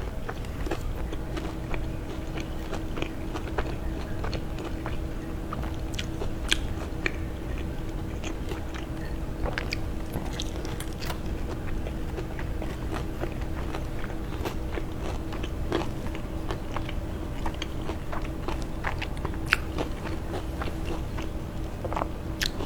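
Close-miked mukbang eating: crunchy bites and chewing, with many short, irregular crackling crunches. A faint steady hum sits underneath.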